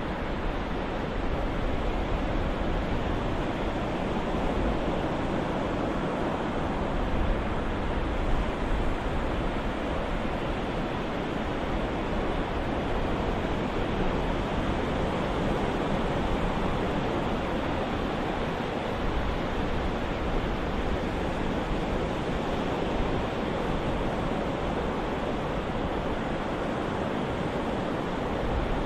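Ocean-waves white noise: a steady, even rush of surf with little rise and fall.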